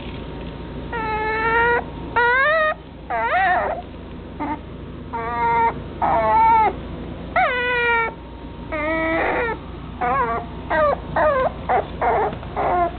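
Long-haired dachshund puppy whining: a string of high-pitched whines about half a second to a second long, coming shorter and faster near the end.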